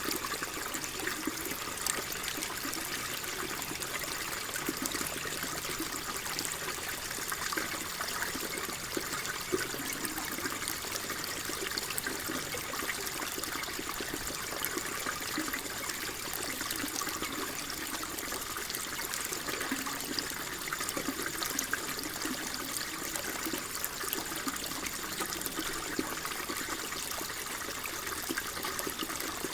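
Water flowing and trickling steadily, with a fine babbling texture.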